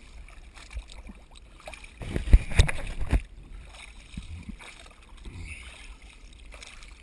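Water sloshing and splashing at the surface, with a louder burst of splashing and low thumps lasting about a second, starting about two seconds in.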